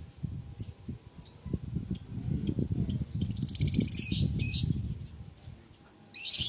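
Lovebirds calling: short shrill chirps, then a fast rattling chatter of calls around the middle and another burst near the end. A low rumble runs underneath.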